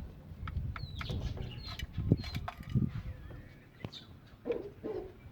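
Caged birds calling: a run of short, high, downward chirps over low rumbling and a few sharp knocks, with two lower, rougher calls near the end.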